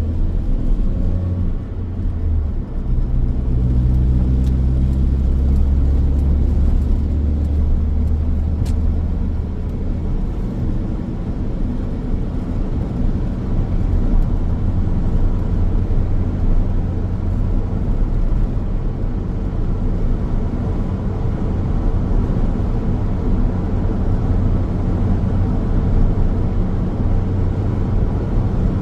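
Car driving along a road: steady low rumble of tyres and engine. In the first several seconds an engine note shifts in pitch before settling into the even drone.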